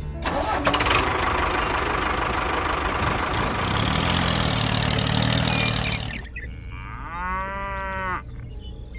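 Steady engine noise for about six seconds, then a cow mooing once, about seven seconds in.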